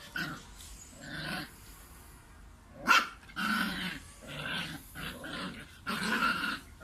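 Puppy growling in short bouts, with one sharp, louder sound about three seconds in.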